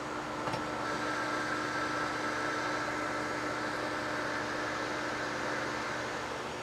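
Metal lathe running with a steady motor hum while the tool takes a cut of about twenty thousandths off a part's diameter; the cutting noise comes in about a second in and fades near the end, after a click about half a second in.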